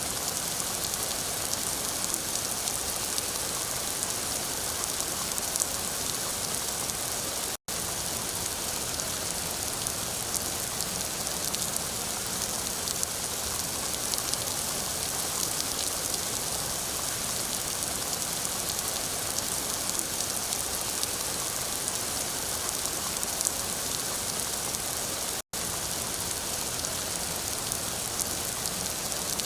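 Steady rain falling, a dense even hiss of drops, that cuts out for an instant twice.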